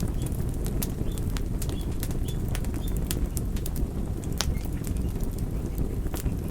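Wood fire crackling, with frequent sharp pops and snaps of varying loudness over a steady low rumble of burning.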